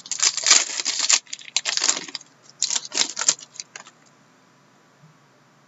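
Trading cards and their foil pack wrappers being handled: two bursts of crisp, crackling rustle, the first about two seconds long and the second about a second long.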